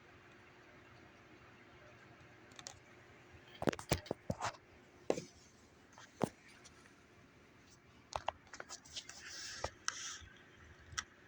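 Scattered sharp clicks and knocks over a low steady hiss: a cluster about four to five seconds in, and more, with a short rustle, toward the end.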